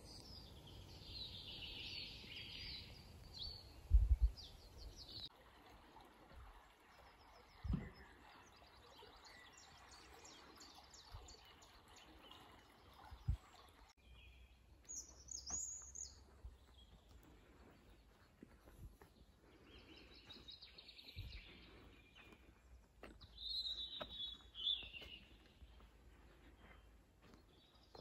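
Small birds chirping and singing over faint outdoor background noise, with a few brief low thumps, the loudest about four seconds in.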